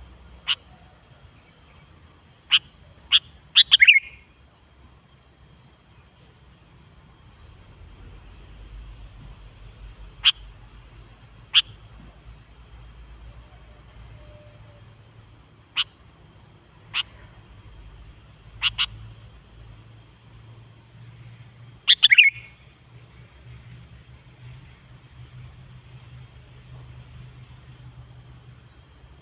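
Sooty-headed bulbul (kutilang) giving short, sharp calls, some singly and some in quick clusters of two or three, a few sweeping downward in pitch. Insects chirp faintly and steadily in a regular rhythm behind them.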